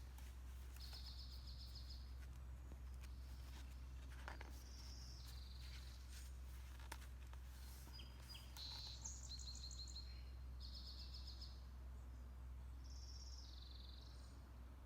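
A songbird singing: short high trills and stepped phrases repeated every second or two, over a faint steady low hum.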